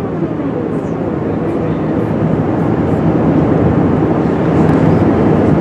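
Steady rushing cabin noise of an Airbus A380 on final approach, its Rolls-Royce Trent 900 engines and the airflow over lowered landing gear and flaps, slowly growing louder.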